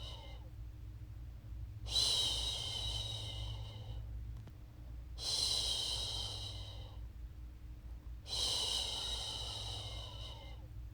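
A woman's long "shhh" shushing to soothe a baby, repeated about every three seconds, each shush starting sharply and fading away. A steady low hum runs underneath.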